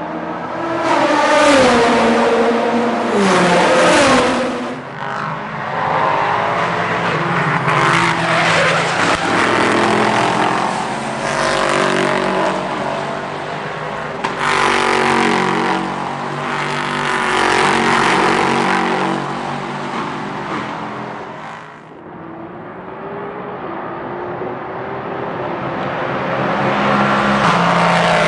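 Race cars passing one after another at racing speed. Each loud engine note rises and falls in pitch as it goes by. The sound dips about three-quarters of the way through and builds again as the next car approaches near the end.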